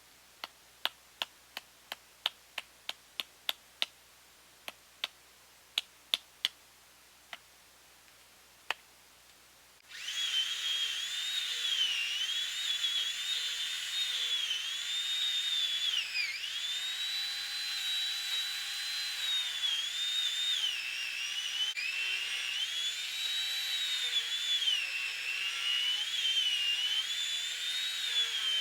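A series of sharp, irregular clicks for the first nine seconds. Then a chainsaw comes in suddenly, running at high revs, its high whine rising and dipping again and again.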